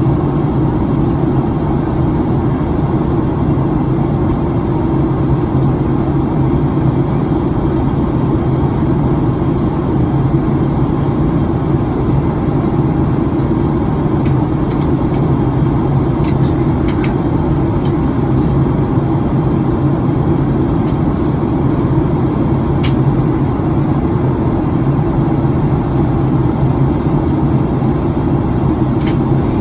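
Steady cabin noise inside a Boeing 737-900ER on approach: the drone of its CFM56 engines and the rush of air over the fuselage. A few faint ticks come through around the middle.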